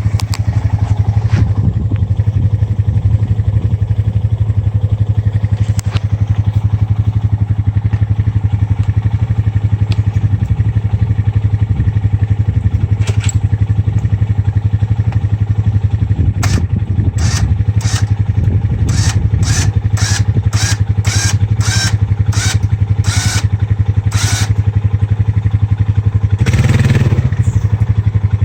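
ATV engine running steadily while its winch pulls on a bent frame. A little past halfway comes a run of sharp clicks, about two or three a second for several seconds, and near the end there is a brief louder burst.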